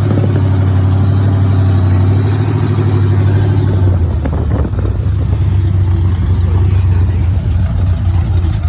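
Vehicle engine running steadily. About four seconds in, its note drops slightly and turns rougher and more uneven.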